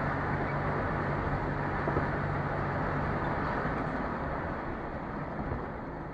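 Steady road noise and engine drone of a moving car, picked up by a dash camera's microphone inside the cabin, easing off slightly near the end.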